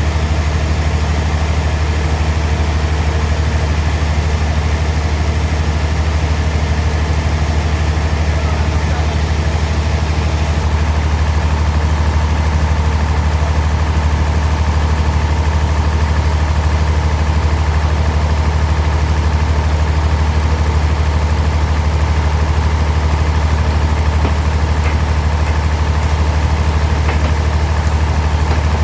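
Sawmill bandsaw machinery running with a steady, unchanging low hum.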